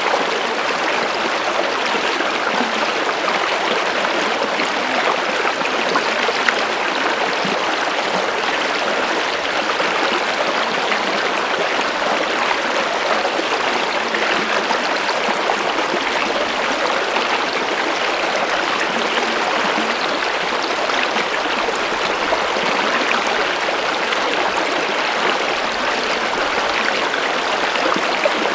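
Water flowing in a steady, unbroken rush, like a stream running over stones, with small splashes and trickles through it.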